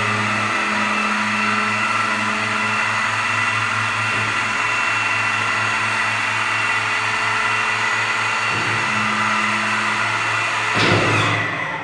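Engine of an LK270 dump truck running steadily, a low pulsing drone under a high whine. It is shut off near the end and dies away.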